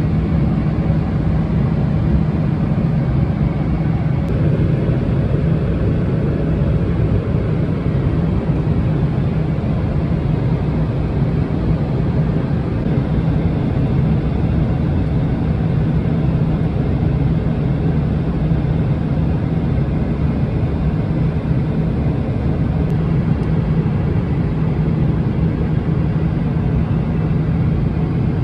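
Steady low rumble of engine and airflow noise inside the cabin of a Boeing 777-300ER airliner, strongest in the low range and unchanging throughout.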